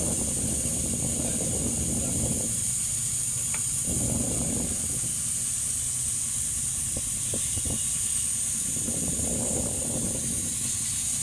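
Steady hiss over a low rumble, with a few light clicks about seven to eight seconds in.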